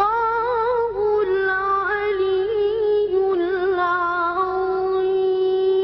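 A child's voice chanting Quran recitation in the melodic tajweed style, with wavering melismatic ornaments, then settling about four seconds in onto one long held note.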